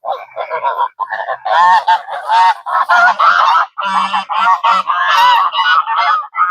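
A flock of domestic geese honking loudly, many calls overlapping in a constant chatter.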